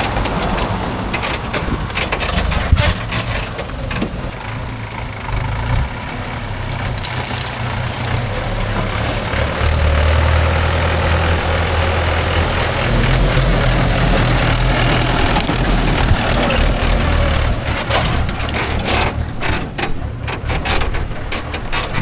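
Heavy diesel machinery engine running, its note rising and falling, louder through the middle of the stretch, with occasional short knocks.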